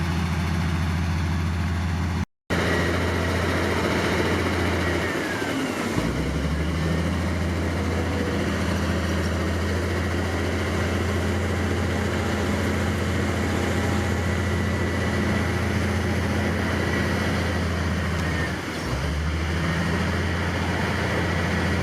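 Heavy diesel engine of earthmoving machinery running steadily. Its note sags twice, about five seconds in and again near the end, and the sound drops out for a moment a couple of seconds in.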